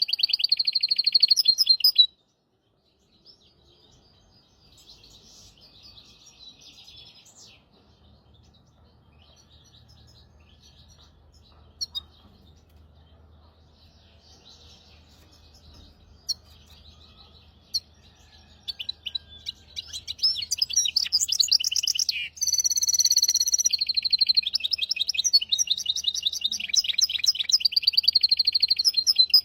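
Hybrid finch singing a fast, high, trilled song. The song stops about two seconds in and gives way to faint scattered notes, then comes back loud and continuous about twenty seconds in, with a short run of clear whistled notes near the middle of that stretch. A faint low hum runs underneath.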